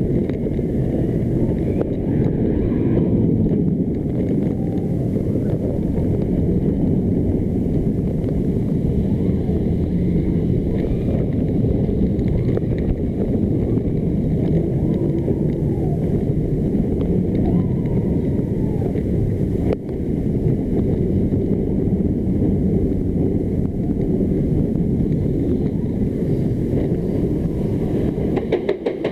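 Heavy wind buffeting the action camera's microphone over the rumble of a Vekoma suspended looping coaster train running along its track at speed.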